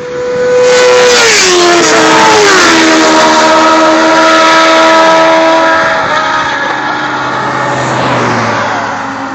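Two inline-four sport motorcycles passing at high speed and high revs, one about a second behind the other; each engine's high whine drops in pitch as it goes by, then fades as they pull away.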